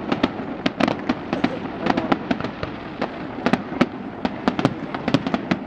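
Fireworks display: a rapid, irregular string of bangs and crackles, several a second, over a steady background rumble.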